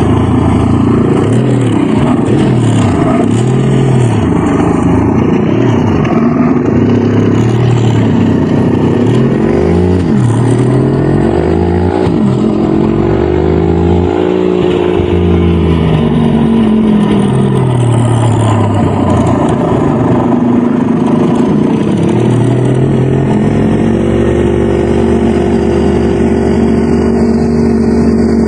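Dirt bike engine revving up and down again and again as the throttle is worked over rough ground, then settling to a steady note about three-quarters of the way through.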